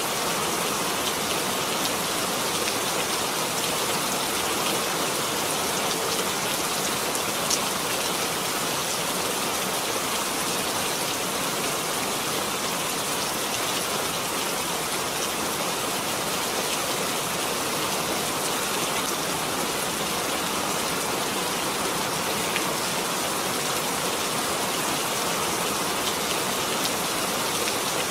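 Steady rain falling, an even hiss of many drops with a single sharper drop tick about seven seconds in.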